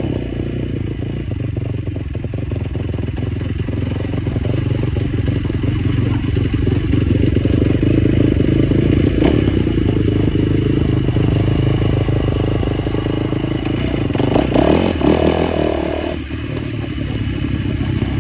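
Small motorcycle engine running continuously, swelling louder through the middle, with a brief surge about fourteen seconds in and a short drop just after.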